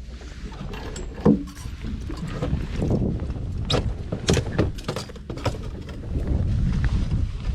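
Water and wind rumbling around a fishing boat at sea, with irregular knocks and clicks throughout; a sharp knock about a second in is the loudest.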